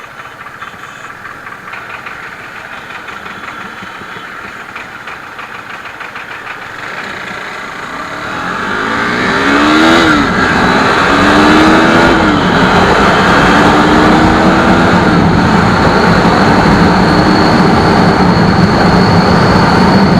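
Suzuki Hayabusa motorcycle with a loud aftermarket exhaust pulling away and accelerating hard about eight seconds in. The engine note climbs and drops several times as it shifts up through the gears, then gives way to steady riding with heavy wind noise over the engine.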